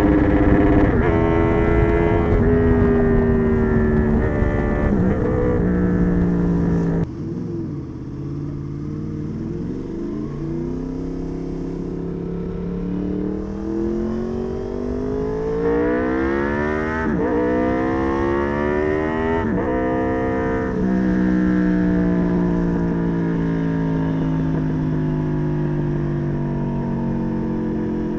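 Honda VFR800 V4 engine through a custom exhaust under way, its pitch stepping down several times before the throttle closes and it goes quieter about seven seconds in. The revs then climb again, with two quick dips near the middle like gear changes, and the pitch falls slowly over the last several seconds.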